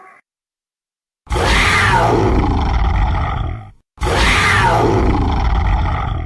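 Dinosaur roar sound effect played twice in a row: each a long roar over a deep rumble, its pitch falling from high to low, lasting about two and a half seconds.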